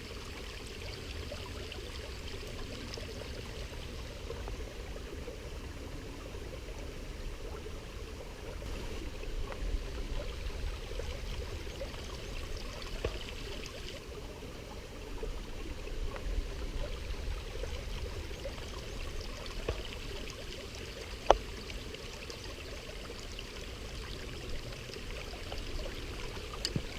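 Waterfall and mountain stream water running steadily, with one sharp click about twenty seconds in.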